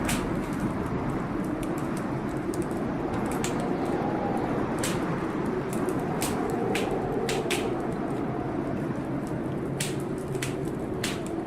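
Wood fire in a fireplace crackling, with sharp irregular pops every second or so, over the steady rush of a rainstorm outside.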